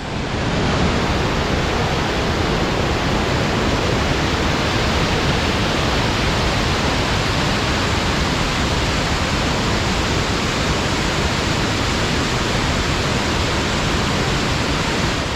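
Steady, loud rush of whitewater at the Potomac River's Great Falls, the river pouring over bedrock falls and rapids.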